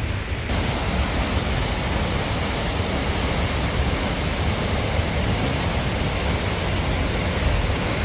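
Hardraw Force, a 100-foot single-drop waterfall, rushing steadily, with a deep rumble under a bright hiss that grows louder about half a second in.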